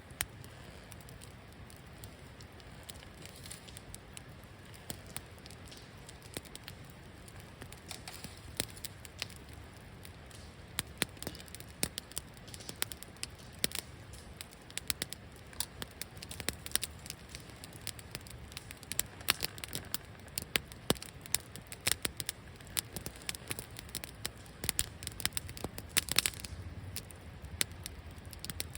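Wood fire crackling, with sharp irregular pops over a low steady rush of burning. The pops are sparse at first and come thicker from about eleven seconds in, with a short hiss near the end.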